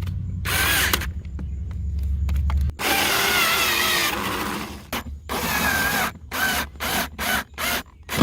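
Power drill/driver running in T25 screws to secure a car's heater blower motor: a long continuous run, then a string of short trigger bursts as the screws are snugged down.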